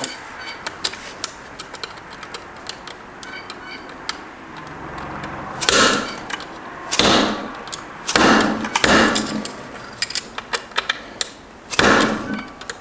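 Hammer blows on steel parts of a Subaru six-speed transmission being knocked apart, about five loud metallic strikes with a short ring after each, preceded by light clatter of tools and parts.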